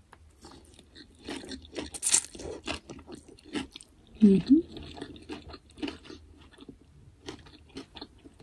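Close-miked chewing with irregular crunches and wet mouth clicks, the loudest crunch about two seconds in.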